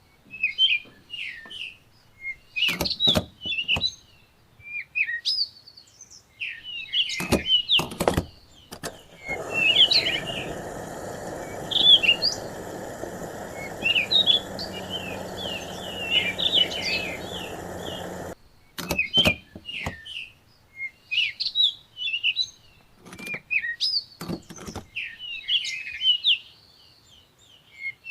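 Small birds chirping repeatedly, with a few sharp clicks scattered through. A steady rushing noise starts about a third of the way in and cuts off suddenly a little past the middle.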